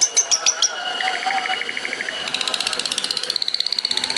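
Long-tailed shrike (cendet) singing in rapid bursts. First comes a string of sharp high notes, then a lower trill about a second in, then a fast high trill from about halfway to the end.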